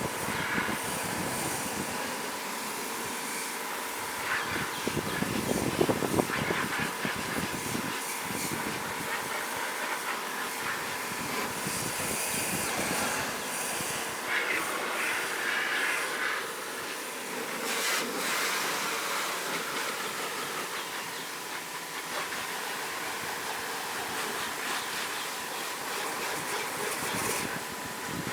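High-pressure water jet spraying into an air conditioner's outdoor unit and fan to wash the dust out: a steady hiss of water on metal with a faint steady whine underneath.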